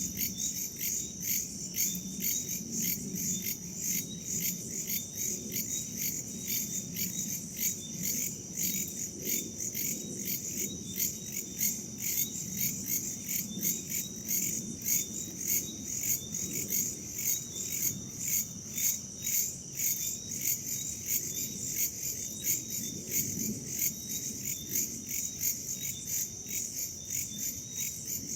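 A steady chorus of crickets and other insects, one high steady trill under chirps that pulse a few times a second, over a low, soft rush of wind.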